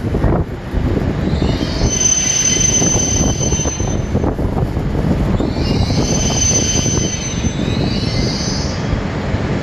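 Shinkansen train running along the station track: a steady loud rumble of wheels on rail, with a high wheel squeal that rises in twice for a few seconds each.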